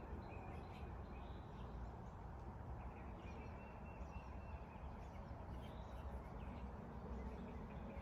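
Quiet outdoor ambience after the sirens stop: distant birds chirping, with a faint high wavering tone now and then, over a low steady rumble.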